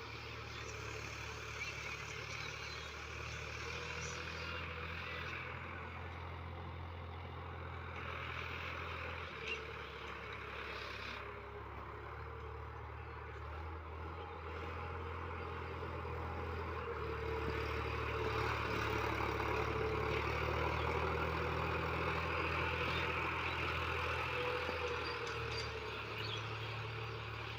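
Sonalika DI-50 Rx tractor's diesel engine running steadily, growing louder for several seconds past the middle before easing off again.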